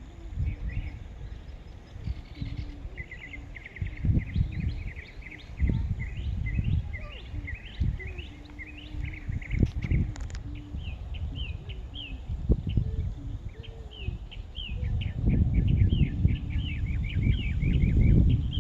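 Wind buffeting the microphone in uneven gusts, strongest near the end, while birds chirp and sing in quick runs of short notes.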